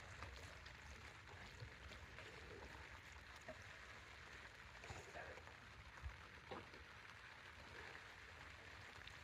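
Faint, steady rain with a few soft drip-like ticks.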